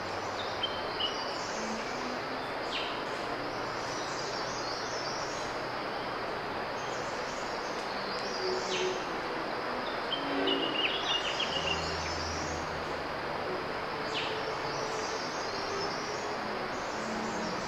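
Tropical forest ambience: a steady hiss with scattered bird calls, including a few low hoots and short high chirps.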